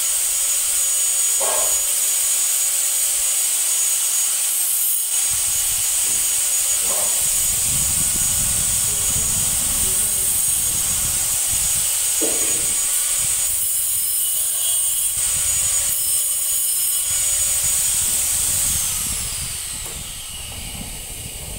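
A loud, steady, high-pitched hiss that fades out with a slight fall in pitch near the end, over faint handling and tool sounds as the gas stove is worked on.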